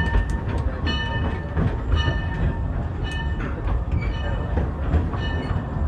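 Steam train rolling along with a steady low rumble, and a short ringing tone that repeats about once a second.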